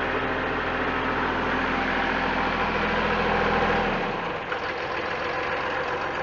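Tractor diesel engine running steadily behind a Kubota BH77 backhoe; about four seconds in its low hum drops away and the engine note changes.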